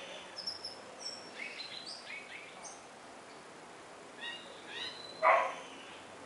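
Wild birds calling in a tropical garden: short chirps and whistled notes from several birds, with a louder, coarser call about five seconds in.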